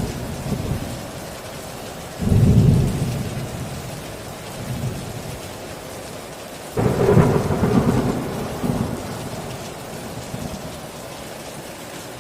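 Heavy rain falling steadily with thunder: two loud low thunderclaps, one about two seconds in and a bigger one, reaching higher, about seven seconds in, each rumbling away over a few seconds.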